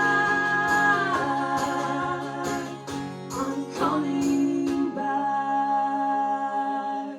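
The close of a live song: a held sung note that drops away about a second in over strummed guitar, then a final chord left ringing until it fades near the end.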